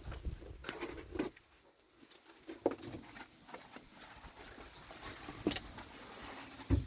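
A few scattered short knocks and rustles, with a low thump near the end.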